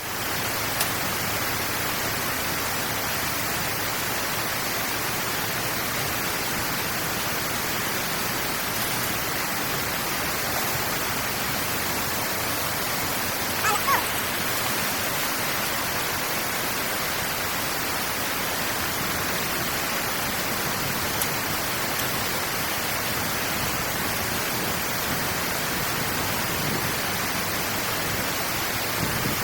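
Steady rush of flowing water, with one brief high chirp about halfway through.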